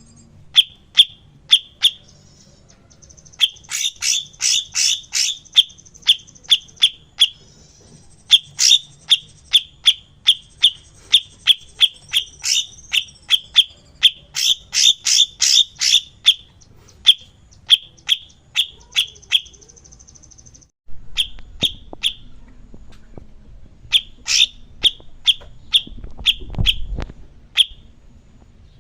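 Songbird recording for song training (masteran): fast runs of short, sharp, repeated notes, several a second, broken by brief pauses, with a few stretches of a high buzzy trill. About two-thirds of the way through the background noise changes suddenly, where a different recording is spliced in.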